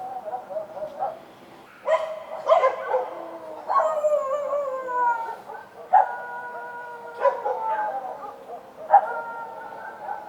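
Street dogs barking and howling: a series of sharp yelps, each drawn out into a long call that slides down in pitch, with calls overlapping at times.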